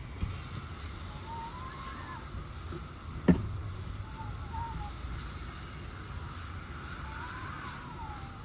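Typhoon wind with a steady low rumble and buffeting, and a thin wavering whistle that rises and falls a few times. One sharp bang a little over three seconds in is the loudest sound.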